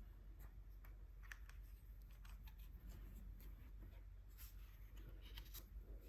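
Faint, scattered scratchy strokes and light ticks of gouache being swatched on paper, over a steady low hum.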